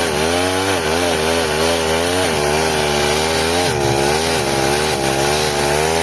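Stihl 08 two-stroke chainsaw running under load while cutting through a tractor tyre, its engine note dipping and recovering over and over as the chain bites.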